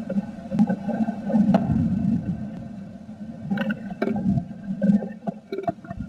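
Blue tit moving about inside a nest box and working its nest material, heard through the box's own microphone: low, close-up rustling and scratching with scattered sharp taps, several of them bunched about midway.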